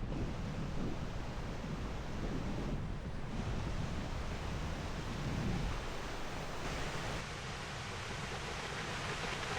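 Wind buffeting the microphone over a steady rush of water from the falls. About seven seconds in, the low rumble eases and the water's hiss grows brighter.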